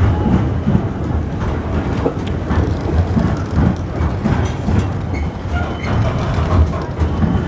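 Container freight train's loaded wagons rolling past close by: a steady low rumble of steel wheels on the rails, broken by repeated clicks and clatter as the wheelsets run by.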